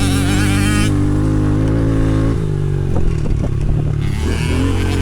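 Small dirt bike engine running hard on a motocross track, its pitch dropping about two seconds in as it comes off the throttle, with some knocking and clatter for a second afterwards.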